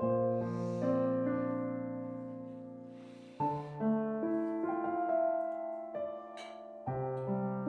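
Slow, gentle solo piano music: sustained chords struck about every three and a half seconds, each left to ring and fade.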